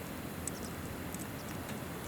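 Wood campfire crackling, with a few sharp pops, over the steady rush of a flowing river.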